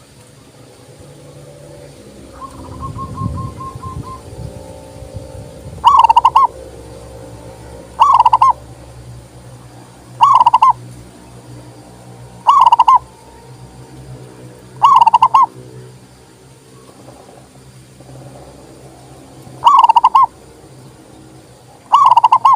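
Zebra dove (perkutut) cooing: short loud coos repeated about every two seconds, seven in all, with a pause of about four seconds before the last two. A fainter quick trill about two and a half seconds in.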